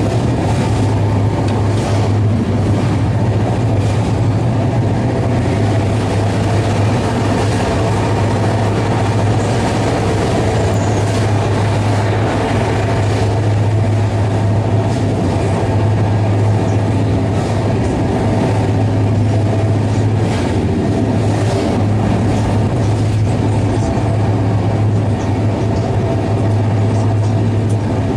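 Steady running noise inside a Shatabdi Express chair car at about 150 km/h: a loud, even rumble of wheels on rail over a deep steady hum, with a few faint clicks.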